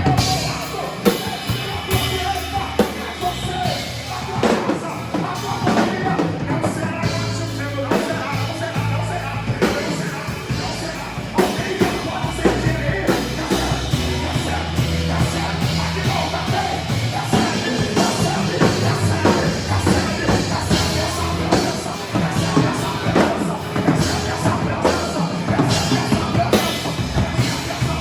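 Live gospel band music: a drum kit keeping a steady beat under held low notes, with singing.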